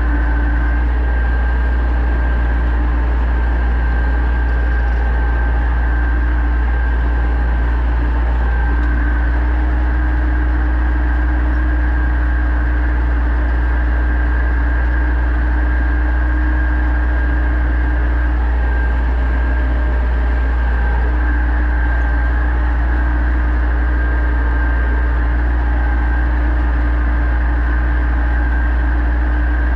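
Pronar 1025A tractor's diesel engine running steadily under load while ploughing. It makes a constant deep drone with a steady high whine over it.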